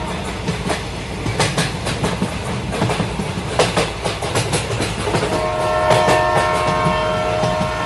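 Passenger train running with a steady low rumble and wheels clacking over rail joints in short groups, then its horn sounds one long multi-tone blast from about five seconds in until near the end.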